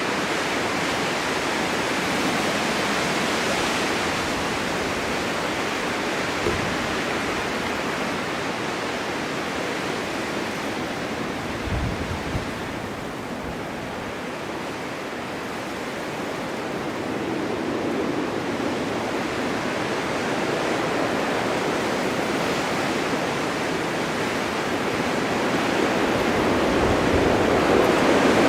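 Blizzard wind driving blowing snow: a steady broad rushing noise that eases somewhat about halfway through and swells again near the end, with a couple of brief low thumps.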